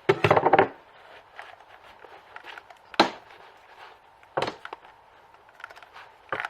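Handling noise: a few sharp knocks and clicks, one about three seconds in, another about a second and a half later and a last one near the end, over a quiet background.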